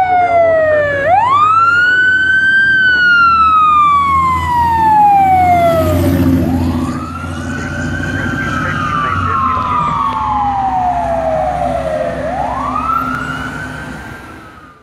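Fire engine siren on a slow wail: the pitch rises quickly, then falls slowly for several seconds, repeating about three times, over the truck's low engine rumble. The sound fades out at the end as the apparatus passes.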